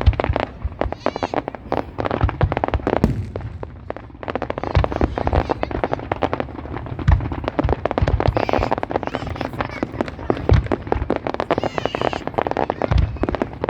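Fireworks going off in quick succession: dense crackling bangs, with deeper booms every couple of seconds.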